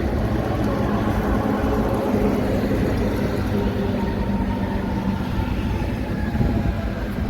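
Heavy vehicle running close by: a steady, loud low rumble with a constant hum.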